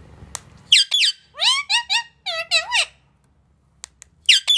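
A pet parrot calling in a quick run of short, high-pitched calls that sweep up and down in pitch, starting about a second in. It falls quiet for about a second, then calls again near the end.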